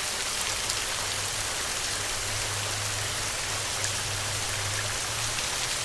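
Steady rainfall, a dense even hiss with fine scattered drop ticks, with a faint low hum in the middle few seconds.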